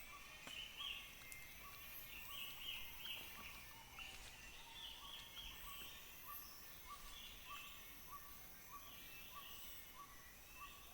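Faint rainforest ambience: a short call repeats at an even pace, a little under twice a second, over steady high-pitched chirring, with scattered higher calls on top.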